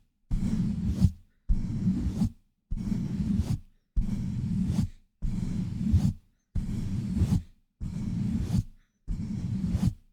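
Hands pumping and rubbing over a bare microphone (ASMR mic pumping), making a muffled, rumbling rub. It comes in rhythmic bursts of under a second, about one every 1.2 seconds, with silence between them.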